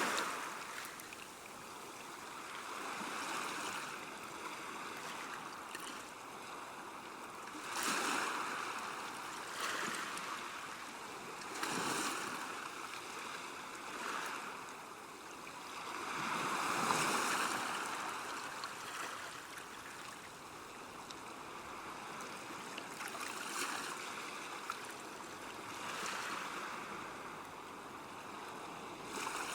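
River water washing against the bank, a continuous rush that swells and ebbs every few seconds.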